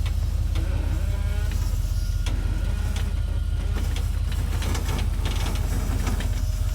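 A 4x4's engine running steadily at low revs, with scattered light clicks and knocks over it.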